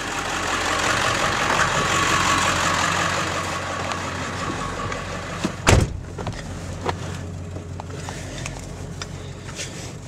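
A 7.3-litre turbo diesel truck engine idles with a low steady drone. A door slams shut once a bit over halfway, the loudest sound here, and a few light clicks follow. The idle is a little rough, which the owner puts down to a failing injector.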